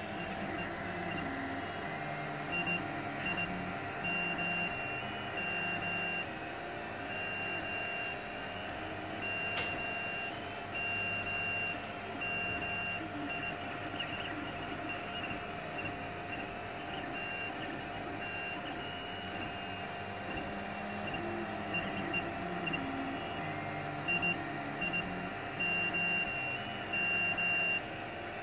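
3D printer printing a wing profile in vase mode: its stepper motors whine in short tones that jump in pitch as the nozzle circles continuously with no retractions, over the steady hum of a cooling fan.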